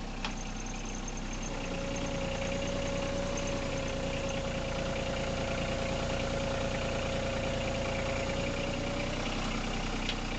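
Loader tractor's engine running steadily, with a single steady whine that comes in about a second and a half in and holds until near the end.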